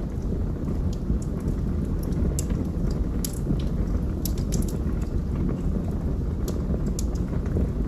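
Wood fire burning in a fireplace: a steady low rumble of flame with irregular sharp crackles and pops, bunched around the middle.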